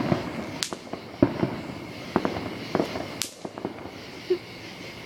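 Small consumer firework, a 'golden flower' ground piece, going off with irregular pops and crackles, and two sharper cracks about half a second and three seconds in.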